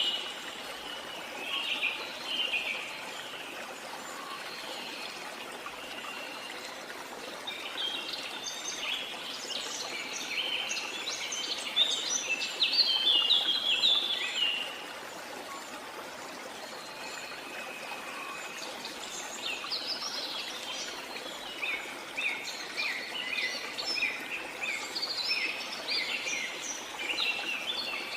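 Birds singing in bouts of rapid, high chirps over the steady rush of flowing water: a short bout about two seconds in, a longer, louder one from about eight to fifteen seconds, and another from about nineteen seconds on.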